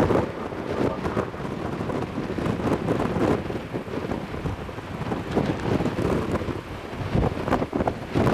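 Strong, gusty wind buffeting the microphone, a rough low rumble that swells and eases with each gust.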